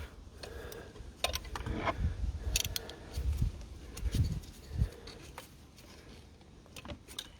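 A metal spanner clicking and scraping on nuts and fittings in an engine bay, with a few dull knocks, as the injector pipe nuts are worked loose. The sounds grow sparser and fainter in the last couple of seconds.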